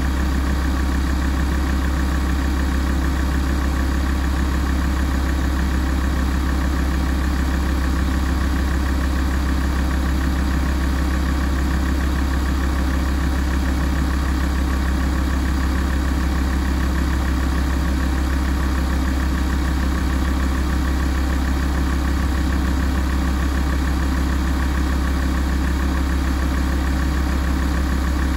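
Alfa Romeo 166 2.4 JTDm five-cylinder common-rail diesel idling steadily during a warm-up, with a deep, even hum and no change in speed.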